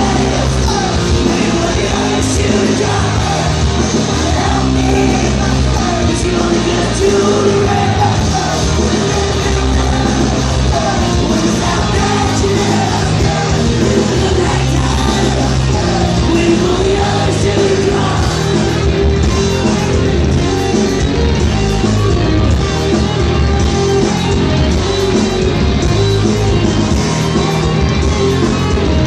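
Live punk rock band playing loud, with shouted, yelled vocals over the full band, going without a break.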